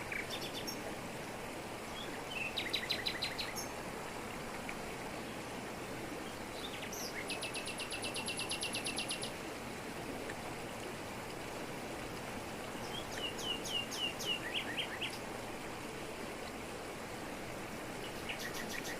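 Steady rush of a jungle waterfall falling over rocks, with birds calling over it in short rapid trills: one a few seconds in, a longer trill of about two seconds around the middle, a run of falling notes later on, and another starting near the end.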